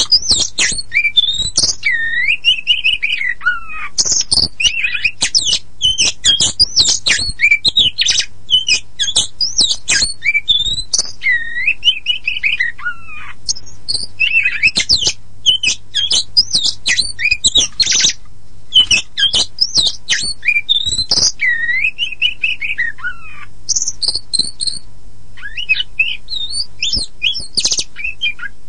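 Oriental magpie-robin of the black-and-white 'kacer poci' form singing a fast, continuous run of varied whistles, sliding notes and sharp chirps, with a faint low hum underneath.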